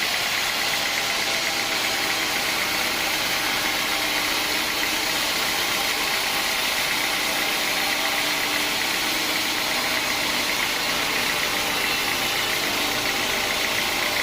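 Sawmill machinery running steadily: an even mechanical drone with a strong high hiss that holds at one level throughout.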